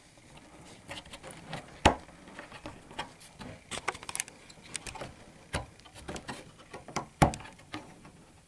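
Scattered knocks and clicks of wood on wood as a stuck pin is worked out of a wooden beehive's debris-tray mount, with two sharper knocks about two seconds in and near the end.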